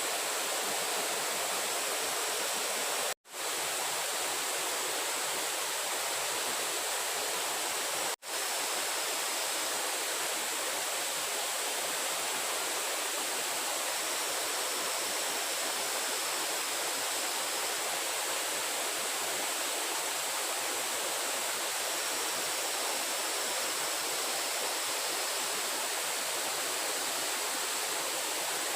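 Steady rushing of water, an even hiss. It cuts out twice, very briefly, about five seconds apart.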